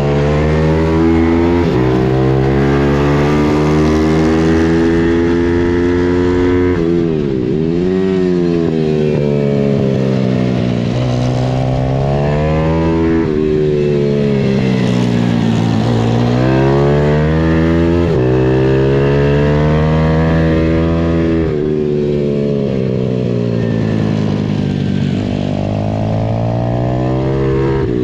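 Pit bike engine being ridden hard, its revs climbing and falling over and over, with several quick sharp drops between longer climbs.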